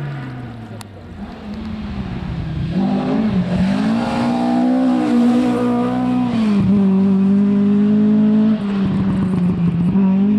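Rally car engine running hard at speed. The revs fall away at first, then build again from a few seconds in and hold high, with brief lifts about two-thirds through and near the end. It grows louder as the car approaches.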